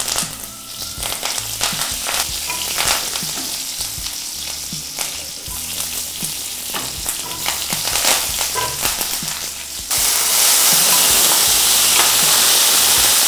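Tempering (tadka) sizzling in hot oil in a kadai, with curry leaves, garlic and green chillies crackling and scattered pops. About ten seconds in, chopped tomatoes go into the oil and the sizzle jumps to a loud steady hiss as they are stirred with a wooden spatula.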